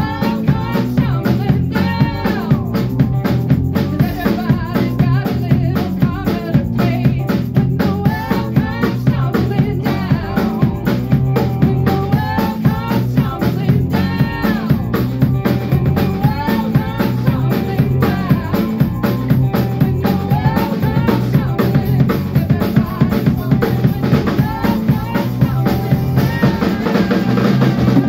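Instrumental band music led by a drum kit: a steady, busy beat of kick, snare and rimshots under a melody line with pitch bends.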